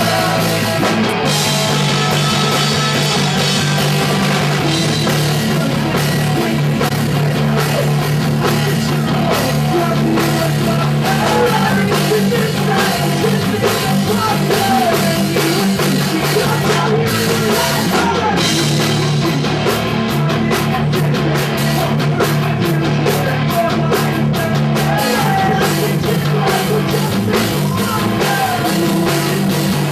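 Live punk rock band playing: distorted guitars, bass and drum kit with a singer, loud and continuous.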